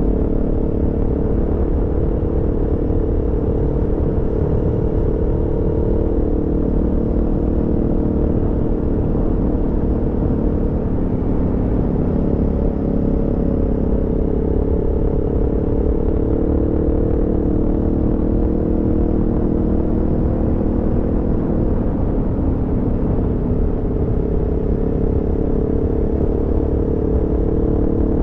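Aprilia Tuono V4 motorcycle's V4 engine running at a fairly steady cruising speed, its note holding level over a strong low rumble of wind and road; right at the end the engine note starts to climb as it accelerates.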